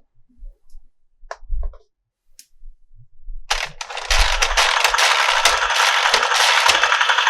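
Light clicks and soft thumps of plastic toy handling, then about three and a half seconds in a loud, rapid crackling sound effect starts suddenly from a toy's small built-in speaker and keeps going.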